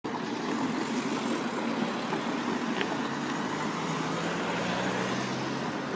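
Road vehicle noise at a level crossing: a steady traffic hum, with a low engine drone settling in about halfway through.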